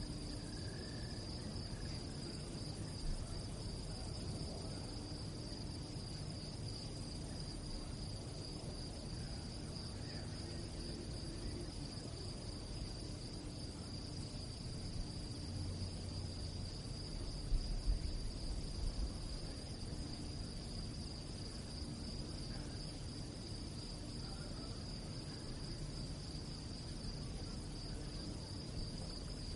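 A chorus of crickets chirping in one continuous, even, high trill. A brief low rumble comes a little past the middle.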